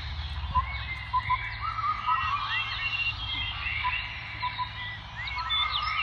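Several birds chirping and calling at once, many short arching and gliding notes overlapping, over a low steady rumble.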